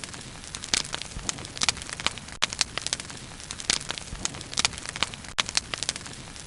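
Wood bonfire burning, crackling and popping irregularly, several sharp pops a second over a steady hiss of flame.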